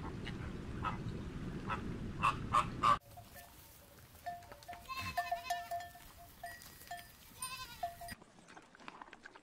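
Flamingos honking over a low steady rumble, with several short, loud honks about two to three seconds in. After an abrupt change, a goat bleats in a few wavering calls.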